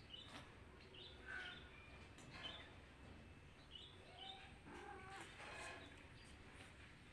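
Faint birdsong: scattered short, high chirps, with a longer call about five seconds in.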